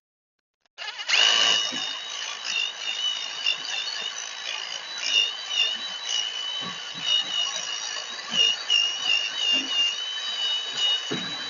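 A handheld power tool runs continuously for about ten seconds, starting about a second in and stopping near the end. Its high motor whine wavers in pitch as the load changes.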